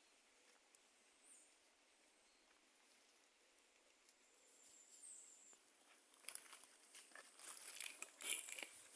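Near silence, then from about six seconds in a run of crackling rustles and small snaps, as of dry leaves or brush being disturbed, loudest near the end.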